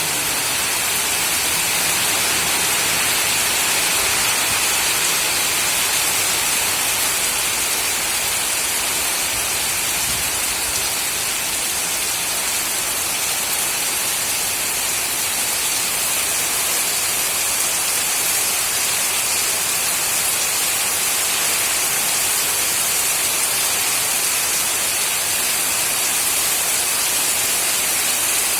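Heavy monsoon rain pouring down steadily, a dense even hiss.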